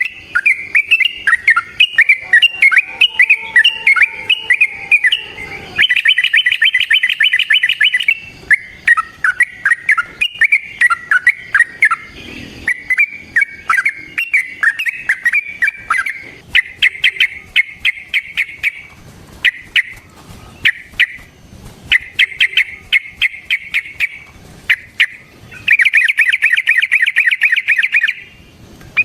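Yellow-vented bulbul (trucukan) singing loudly: bubbly chattering phrases broken by several long, fast rolling trills.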